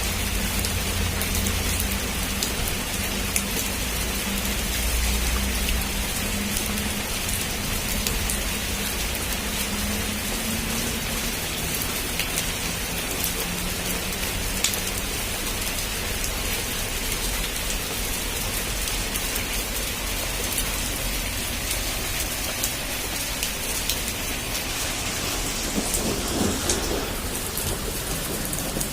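Heavy rain falling steadily, with scattered sharper drops striking, and a low rumble of distant thunder in the first few seconds.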